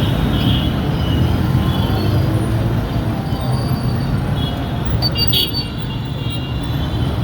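Busy street traffic dominated by motorcycle engines running, a steady loud rumble. A brief sharp high-pitched sound cuts in about five seconds in.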